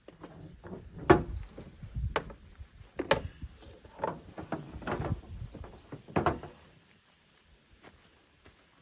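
A series of knocks and clunks, roughly one a second, that stop about two-thirds of the way through.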